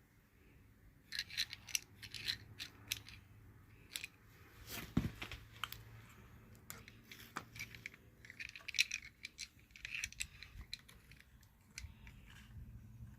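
Hand-handling of steering parts and their packaging: clusters of light clicks, clinks and rustles, with one duller knock about five seconds in.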